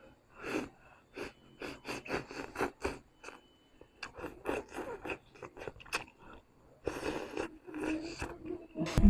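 Close-miked eating of spicy Korean noodles: quick runs of wet mouth clicks and smacks from chewing, with a couple of short slurps near the end.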